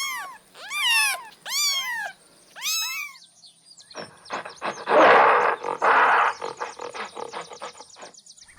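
A cat meowing four times, each cry rising and then falling in pitch. From about four seconds in comes a loud, rough, growling sound made of rapid pulses, which fades away near the end.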